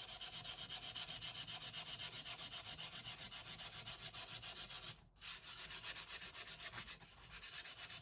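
Sandpaper rubbing across the wooden veneered base panel of a box in quick, even strokes, about five a second. There is a brief pause about five seconds in.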